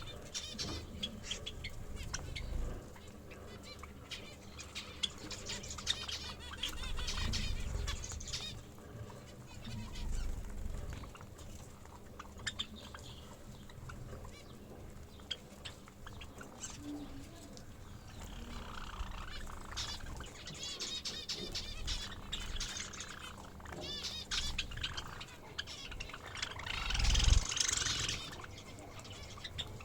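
Small cage birds chirping and calling in many short, high chirps, with a louder burst of calls and a low thump near the end.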